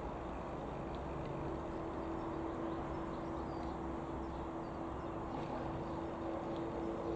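Comco Ikarus C-42 microlight's Rotax 912 piston engine and propeller droning steadily, a constant hum holding one pitch.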